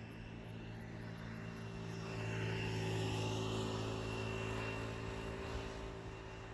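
A motor passing by: a steady droning engine hum that grows louder about two seconds in, peaks, then fades away.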